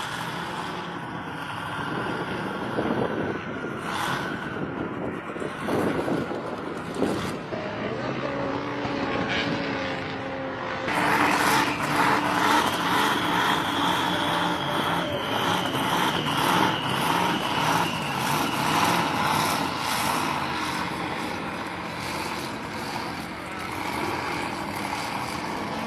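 A truck running, growing louder and fuller about eleven seconds in.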